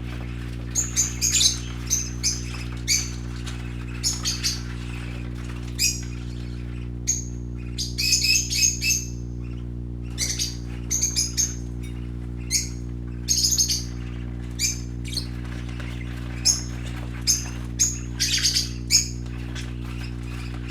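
Pet parakeets chirping in short, bright bursts that come in clusters every second or so, over a steady low hum.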